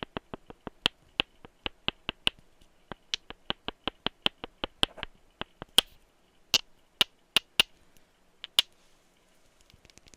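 Tapping on a perfume bottle: quick runs of sharp clicks, about four or five a second, thinning after about five seconds to slower, louder single taps, then faint light taps near the end.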